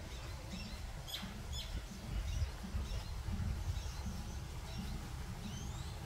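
Small birds chirping in scattered short calls, with a couple of quick upward-sweeping whistles near the end, over a steady low rumble.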